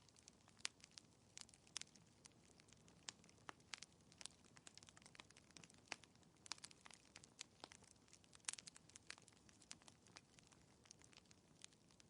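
Burning logs in a fireplace crackling: quiet, irregular sharp pops and snaps, several a second, over a faint hiss.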